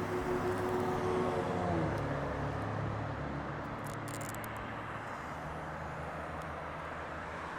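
Engine rumble from a passing vehicle: a few steady tones slide down in pitch and fade about two seconds in, leaving a lower, steadier rumble. A brief crackle of clicks comes about four seconds in.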